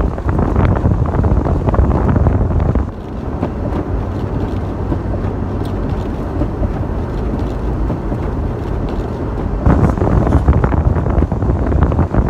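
Low, steady rumble of a vehicle on the move, with heavier buffeting in the first few seconds and again near the end that is typical of wind on the microphone.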